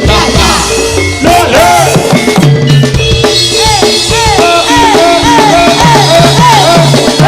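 Live Javanese jaranan ensemble music: drums play a busy rhythm over held low and mid notes, with a run of short notes that bend up and back down, about two a second, in the second half.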